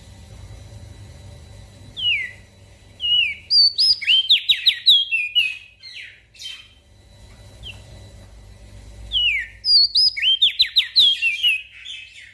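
Opior jambul (crested dark-eye) singing: two song phrases, each opening with downslurred whistles and running into a quick series of high notes, the first starting about two seconds in and the second about nine seconds in.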